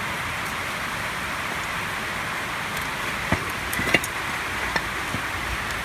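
Steady hiss of heavy thunderstorm rain on the garage roof. A few short sharp clicks a little past halfway as the brake caliper is handled.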